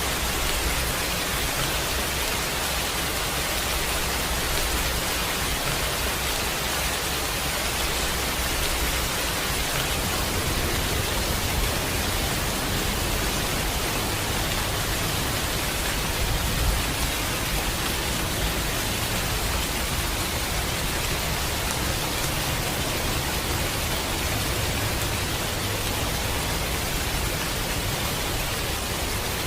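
Steady, heavy rain falling without a break. About a third of the way in, a low rumble strengthens underneath it.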